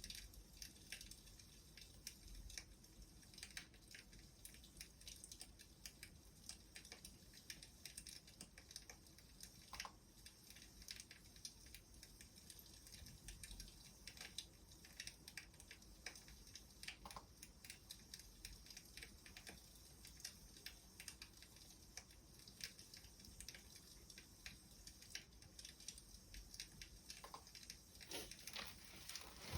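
Wood fire crackling faintly, with a steady run of small irregular pops and snaps.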